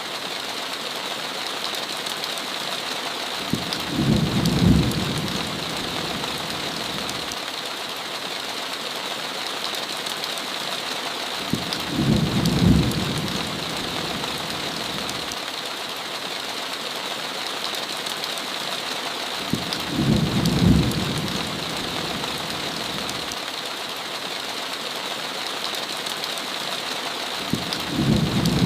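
Heavy rain on a window, a steady hiss, with four short, low thunder rumbles evenly spaced about eight seconds apart.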